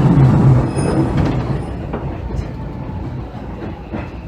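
A loud train rumble heard from inside a Hanshin 5700 series car stopped at a station, fading away over the first couple of seconds, as when another train runs past on the adjacent track.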